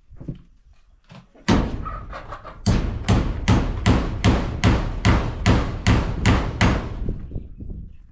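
Hammer blows: a single strike, then a steady run of about eleven strikes, roughly two and a half a second, that stops about a second before the end.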